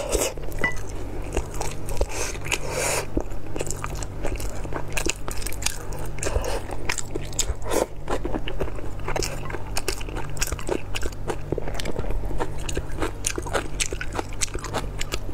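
Close-miked biting and chewing of a large black rice sausage: dense, irregular mouth clicks and wet bites with no pauses, over a steady low hum.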